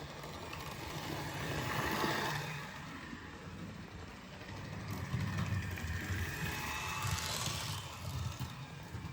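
A Hornby model steam locomotive running on its track: a steady hum from its small electric motor, with wheel-on-rail rattle. It grows louder twice, about two seconds in and again near the end, as it passes close by.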